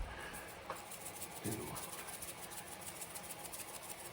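Faint hand-handling sounds of seasoning raw chicken thighs with a coarse dry rub: soft rubbing and a fast, fine ticking of sprinkled rub, with a small click and a soft thud about a second and a half in.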